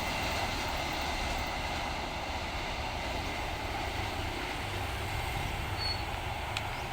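Freight train's container wagons rolling past on the rails: a steady rumble that slowly fades.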